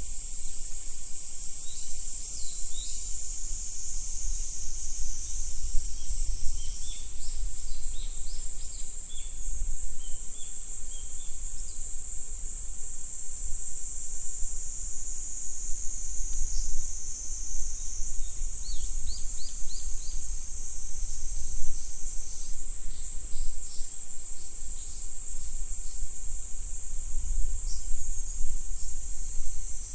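A steady, high-pitched insect chorus, with groups of short bird chirps coming and going over it, and a low rumble underneath.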